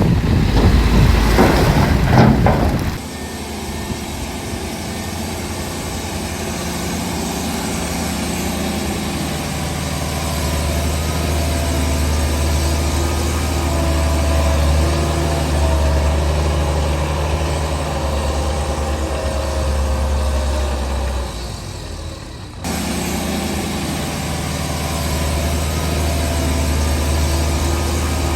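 Heavy diesel earthmoving machinery running steadily with a deep hum, after a few seconds of loud, rough rushing noise at the start. About three-quarters of the way through the sound drops away briefly, then the engine comes back abruptly.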